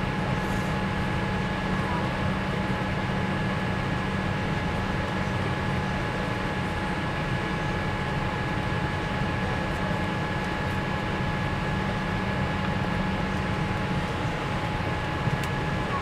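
Steady cabin noise inside a Boeing 787 airliner: a continuous rush of air and engine noise with a low hum and two faint steady tones.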